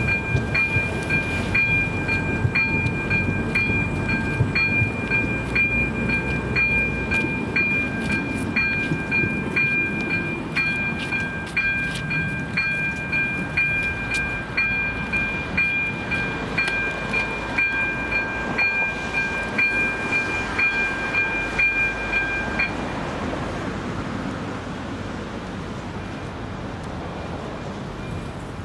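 Level-crossing electronic warning bell ringing steadily at about two strokes a second while a passenger train passes with a low rumble. The bell stops about 23 seconds in as the crossing clears, leaving the train's fading rumble.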